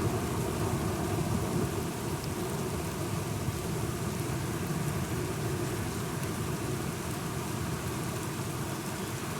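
Steady rain with a low, rolling rumble of thunder that eases slightly after the first couple of seconds.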